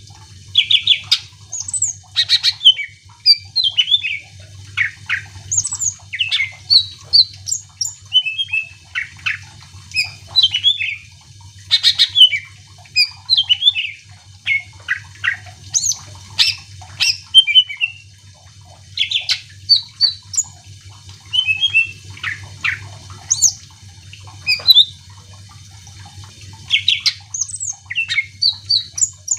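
Cucak ijo (green leafbird) singing hard and without letup: a varied song of quick chirps, sweeping whistles and short harsh notes, phrase after phrase with brief gaps, over a faint steady low hum.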